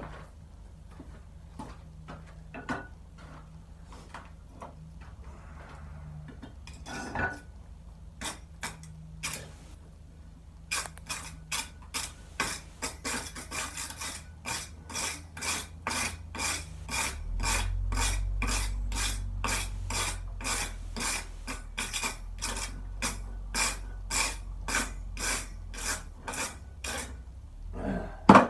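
Hand work on a twisted Damascus steel billet: short rasping strokes of metal on metal, scattered at first, then an even run of about two strokes a second. A low steady rumble comes in about two-thirds of the way through, and one loud hit lands right at the end.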